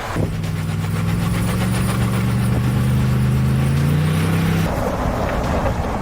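A motor vehicle engine running steadily, its pitch creeping up slightly, cuts off about four and a half seconds in and gives way to a noisy rush.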